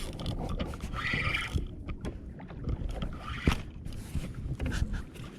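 Water sloshing and wind rumbling around a kayak at sea, with a single sharp knock about three and a half seconds in.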